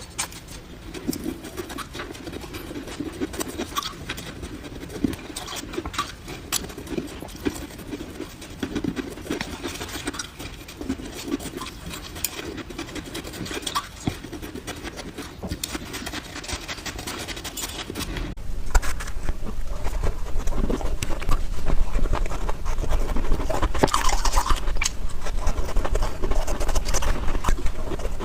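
White ice being bitten and crunched, played back at four times speed, so the crisp cracks come in a rapid, dense run. About 18 s in it gets louder, with a low rumble underneath.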